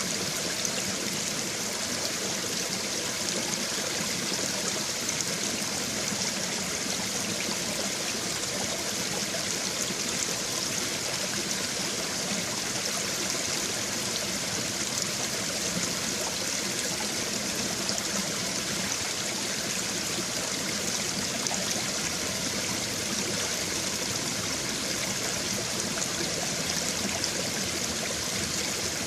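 Babbling brook: shallow stream water running over stones, a steady bright rushing and trickling with no breaks.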